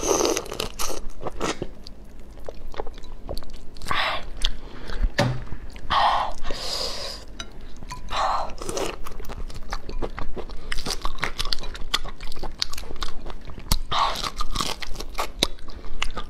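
Biting and chewing a large black tiger prawn, its shell and head crunching. Many sharp crackles and clicks run throughout, with several longer noisy bursts.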